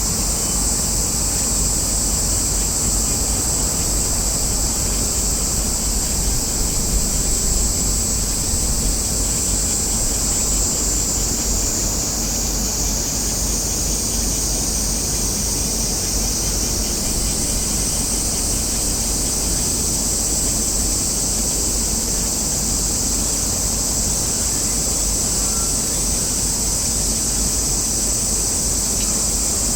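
Steady outdoor background noise: a constant low rumble of wind on the microphone under a continuous high-pitched hiss, with no distinct events.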